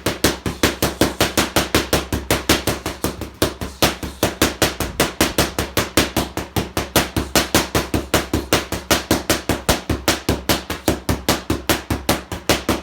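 Rapid straight punches in a boxing burnout, landing in an unbroken stream of sharp smacks at about six a second.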